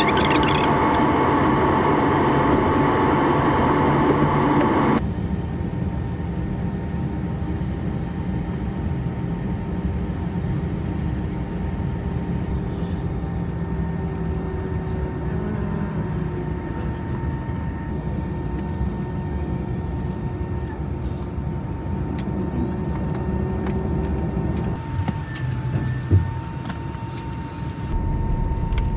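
Airbus A320 cabin noise while taxiing after landing: a low rumble with a thin, steady engine whine at idle. The whole sound drops suddenly in level about five seconds in and shifts again near the end.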